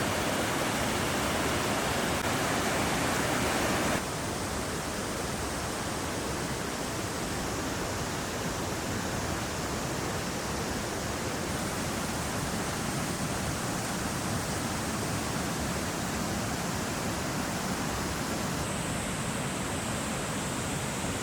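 Muddy floodwater rushing: a steady, even rush of water that drops in level and changes character abruptly about four seconds in, shifting again near the end.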